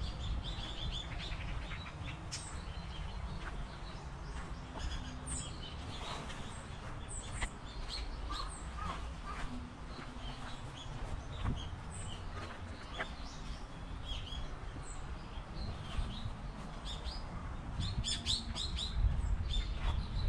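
Small birds chirping and calling in short, scattered chirps, with a busier flurry near the end, over a steady low rumble.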